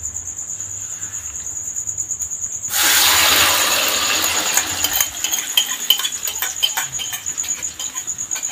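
Egg-and-noodle omelet mixture poured into hot oil in a pan: a sudden loud sizzle starts about three seconds in and fades into crackling. A cricket's high trill sounds behind it.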